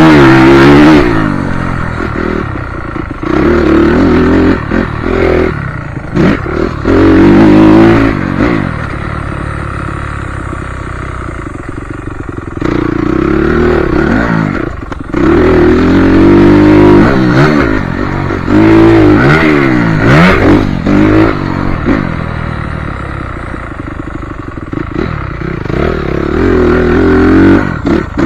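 Motocross bike engine revving hard in repeated bursts, its pitch climbing as the throttle opens and dropping off between surges, with clattering knocks mixed in.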